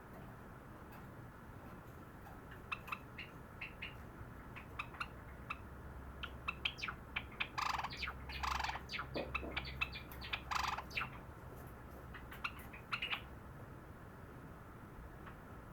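Java sparrow (sakura variety) singing. Short clicking notes start a few seconds in, speed up into a louder, denser burst of song in the middle, then thin out and stop.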